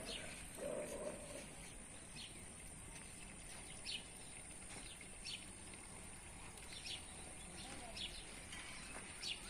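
A small bird chirping repeatedly, a short high call about every second and a half, over faint steady outdoor background noise. A brief lower sound just under a second in.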